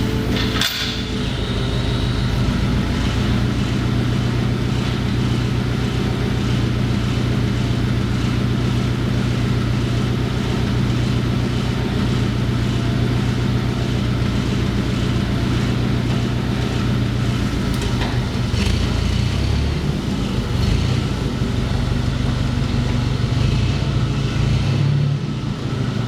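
Oxy-acetylene torch burning steadily with a continuous rushing noise and a steady low hum underneath, its low end shifting slightly near the end.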